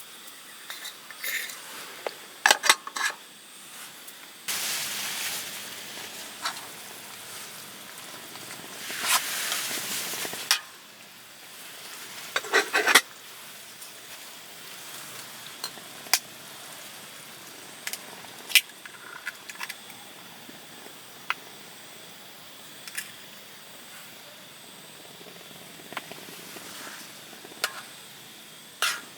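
Camp cooking: metal utensils clinking and scraping against a cooking pot in scattered sharp strokes, with a steady hiss from about four to ten seconds in.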